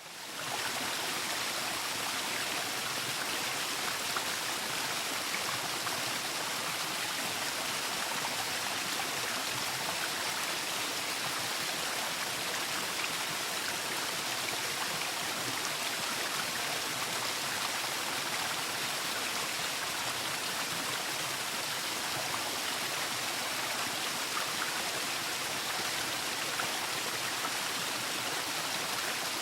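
Waterfall: a steady, unbroken rush of falling and splashing water, fading in at the start.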